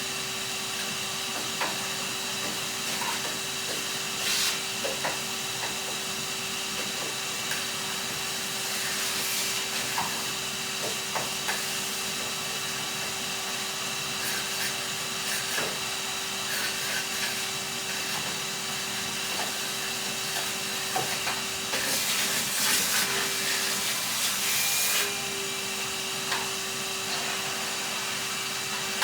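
Henry canister vacuum cleaner running with a steady motor hum and hiss of air, small clicks and rattles as the nozzle picks up bits of debris. The rush of air grows louder for a few seconds near the end.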